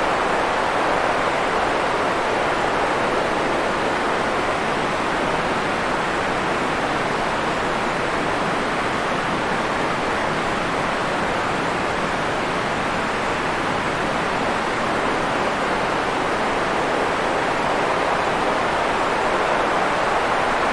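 Steady white-noise hiss for sleep, an even rushing sound centred in the mid range with little deep bass, unchanging throughout.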